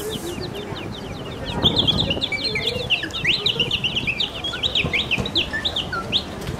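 Rapid, overlapping high bird-like chirps and whistles, many short calls in quick succession that thicken about a second and a half in and stop shortly before the end.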